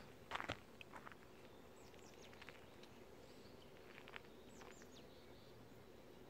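Quiet countryside ambience with a few faint, short, high chirps of small birds, and a couple of soft footsteps in the first second.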